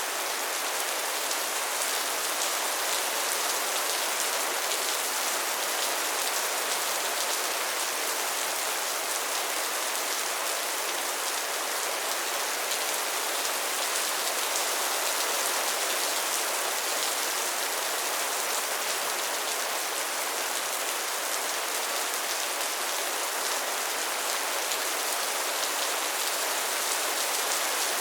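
Steady rain falling, an even, unbroken hiss of many drops hitting a surface, with no thunder.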